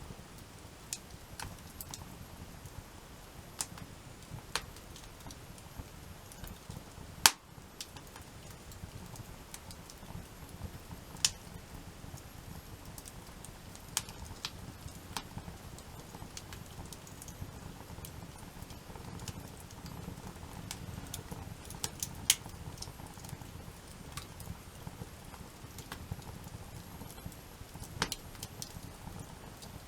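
Wood campfire crackling, with scattered sharp pops and snaps at an uneven pace, the loudest about seven seconds in, over a steady low rumble.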